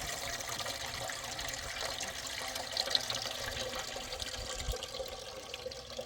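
Water running steadily, a dense splashing hiss that starts suddenly and eases off near the end.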